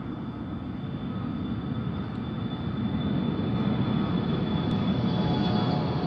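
Jet airliner's turbofan engines running with a steady high whine over a dense rumble, growing steadily louder as the aircraft comes closer.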